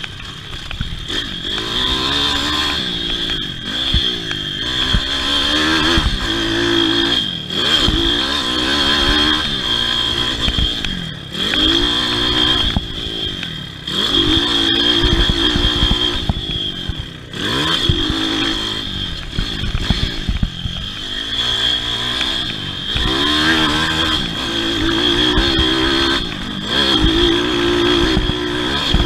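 Pit bike's small single-cylinder four-stroke engine revving up and dropping back again and again as it is ridden hard through a motocross race, with a steady high whine running under it.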